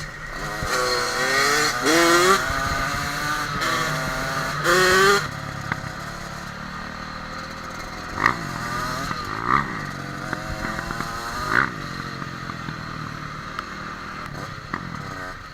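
Dirt bike engine revving hard, its pitch climbing several times in the first five seconds, then running lower with a few short rise-and-fall blips of the throttle.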